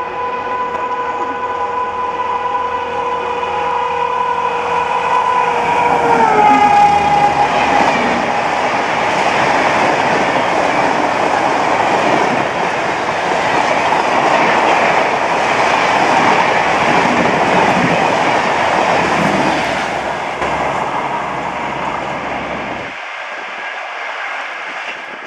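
A WAP-7 electric locomotive's horn is held in one long blast that drops in pitch about six seconds in as the locomotive passes. Then the passenger coaches rush past at high speed for about fifteen seconds before the sound falls away near the end.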